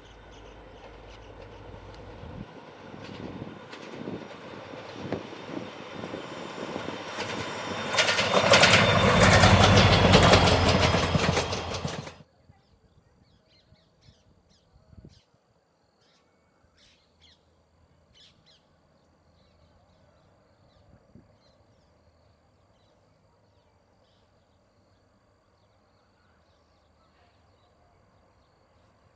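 Express train approaching and passing close by, its wheels clattering rhythmically and growing louder to a peak, then cut off suddenly about twelve seconds in. Faint bird calls follow.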